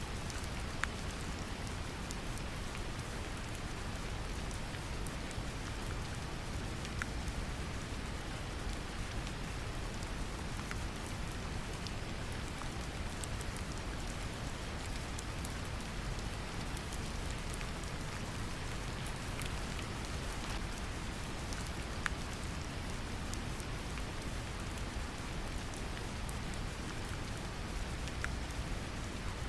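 Steady brown noise, a deep even rumble, layered with gentle rain pattering, with scattered single drops ticking now and then.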